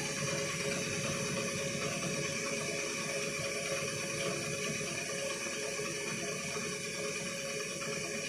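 Zanussi FL904NN front-loading washing machine spinning its drum with the water still inside during an intensive rinse: a steady mechanical whir with water rushing and sloshing in the drum. The machine is not draining; it spins with the water to rinse the powder out.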